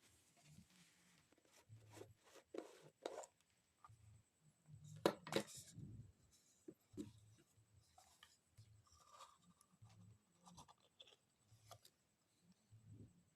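Faint, scattered clicks, taps and light scrapes of small objects being handled, with the loudest knocks about five seconds in.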